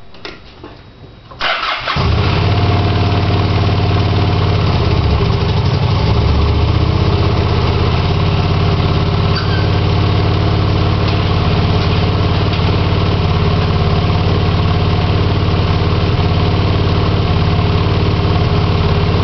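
Cold motorcycle engine on choke: after a short quiet gap it starts about a second and a half in and settles into a steady idle. The idle note shifts slightly around five seconds in.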